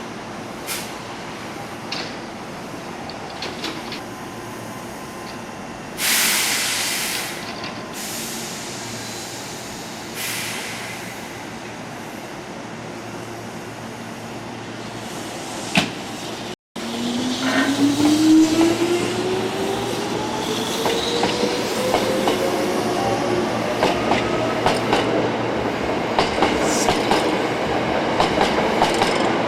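Hankyu electric train at a station platform: after two short bursts of noise, a train pulls away with its motor whine rising steadily in pitch and the wheels clicking over rail joints faster and louder.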